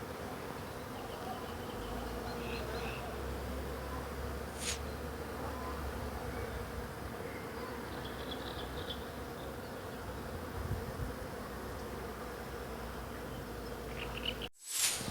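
Swarm of honeybees humming steadily as they work flowering hawthorn blossoms. There is a single sharp tick about a third of the way through, and near the end the sound breaks off for a moment with a sharp click.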